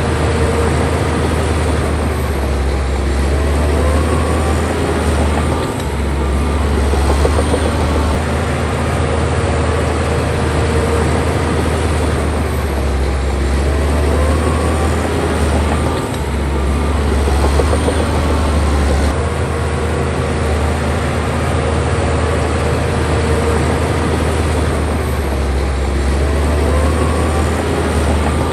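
Bulldozer's diesel engine working steadily with a deep hum, its pitch lifting and easing in repeated cycles every several seconds as it takes and sheds load.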